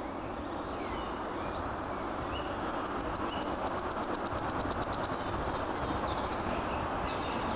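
A songbird's high, rapid trill of evenly repeated notes, about eight to ten a second. It begins a couple of seconds in, swells louder and stops abruptly about a second before the end. Faint chirps of other birds sound over a steady background rush.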